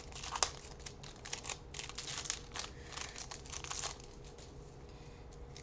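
Trading-card pack wrapper crinkling as it is handled and opened, in quick crackly bursts that die down about four seconds in.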